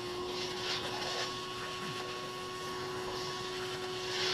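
Shop vac running steadily with a constant motor whine and rushing air, sucking dirt and debris out of a sliding door track.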